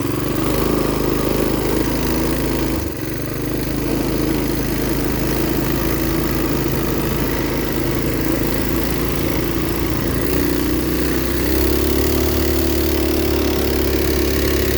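Coleman B200 minibike's small engine running steadily as the bike is ridden. The engine note dips briefly about three seconds in and shifts to a new steady pitch near the end.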